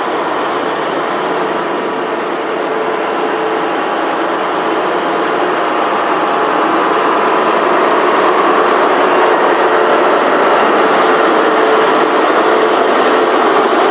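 Class 43 High Speed Train running past, its diesel power car engine humming over the rumble of wheels on rail, growing steadily louder.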